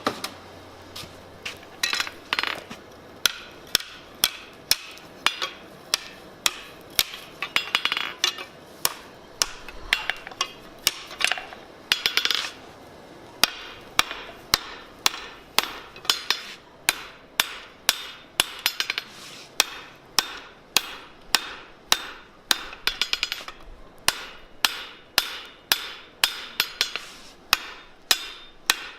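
Blacksmith's hammer striking steel on an anvil, a long series of blows that settles into a steady beat of about two a second in the second half. Some strikes ring on briefly.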